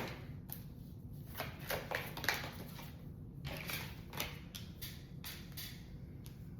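Tarot cards being handled: a series of soft, irregular rustles and light taps.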